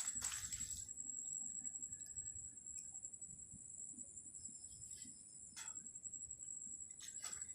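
Insects, crickets by the sound of it, trilling in a steady, unbroken high-pitched tone. A few short rustling noises break in, one right at the start, one a little past halfway and one near the end.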